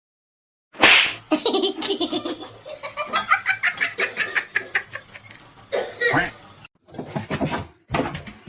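A person laughing hard in rapid, repeated bursts, starting suddenly about a second in after a silence and breaking off briefly a few times.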